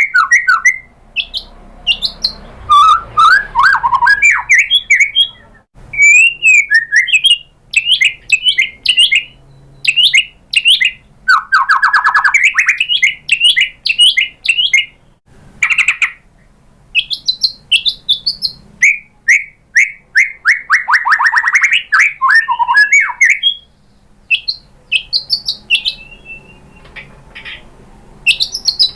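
White-rumped shama (murai batu) singing a long, varied song of loud whistles, chirps and fast trills, broken by short pauses between phrases. It is the shama's full song, loaded with mimicked phrases (isian), of the kind played to lure a captive shama into singing.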